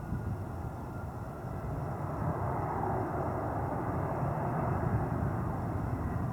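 Jet airliner engines: a steady rumble that grows louder about two seconds in, with a faint whine slowly falling in pitch.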